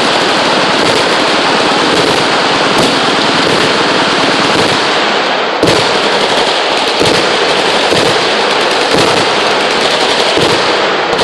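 Many machine guns firing at once: sustained, overlapping automatic fire with no break, the shots running together into a continuous din. A sharper, louder report stands out a little past halfway.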